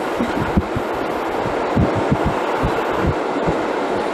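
Ride noise inside a moving train carriage: a steady rumble with a quick, irregular run of low thumps as the wheels cross rail joints and pointwork.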